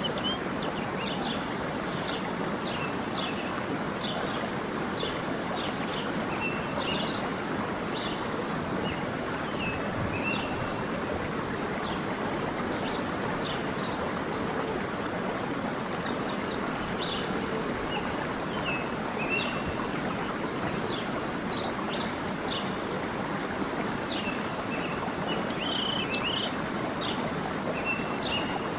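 A stream flowing steadily, with birds singing over it. One bird repeats a short trilled phrase that drops in pitch, three times about seven seconds apart, and short chirps come in between.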